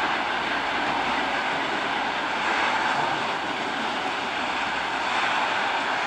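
Freight train of hopper wagons rolling past at steady speed, its wheels on the rails making a continuous, even rolling noise.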